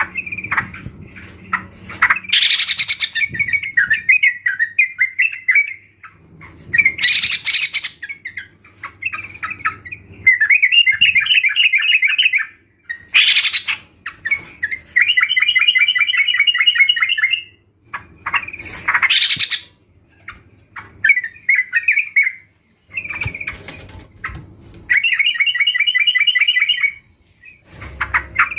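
Yellow-vented bulbuls calling: bursts of fast, bubbling chatter broken by loud rising whistled notes, phrase after phrase with short pauses between.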